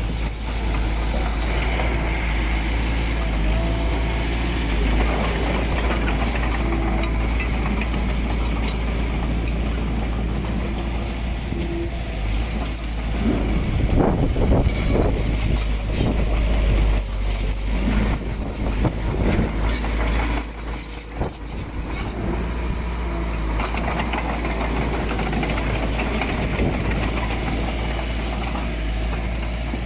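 Diesel engine of heavy earth-moving machinery running, with a deep steady rumble; it grows louder, with knocks and metallic clatter, about halfway through, then settles back.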